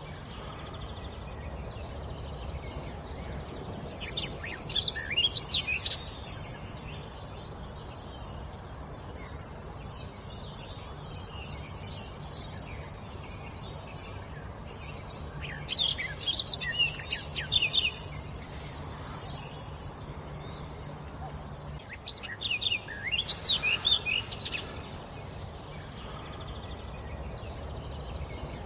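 A songbird singing three short phrases of quick, high gliding whistled notes, separated by long pauses, over a steady low background noise.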